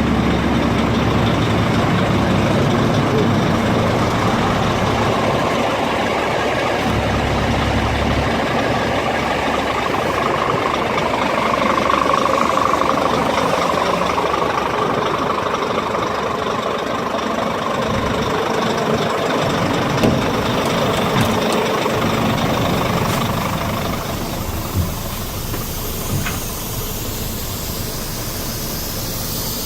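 Scania G400 truck's 13-litre inline-six diesel engine running steadily, growing a little quieter about two-thirds of the way through, with a few short clicks near the end.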